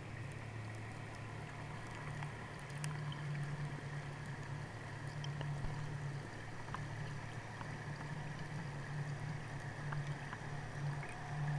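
Boat motor heard underwater: a steady low drone, with a few faint clicks scattered through it.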